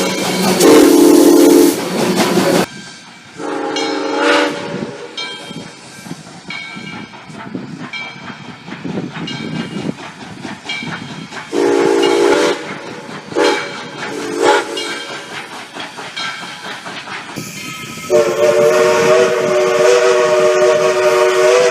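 Steam locomotive whistles blowing, each a chord of several tones: a few short and long blasts, then a long held blast from about 18 seconds in to the end. Between blasts, the hiss and running noise of the moving locomotive.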